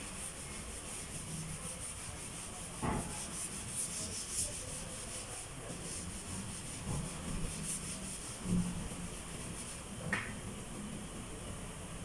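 Sanding on a van's door panel: a steady rubbing rasp with a couple of brief louder knocks.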